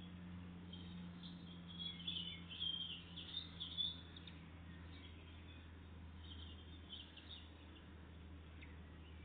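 Small songbirds chirping: a quick run of short, high calls about two seconds in, then fainter scattered chirps, over a steady low hum.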